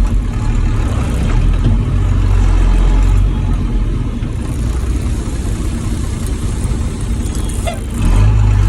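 Old Ford dump truck's engine running on the road, with strong low-pitched engine sound. It pulls louder for the first few seconds, eases off in the middle, and steps up again near the end.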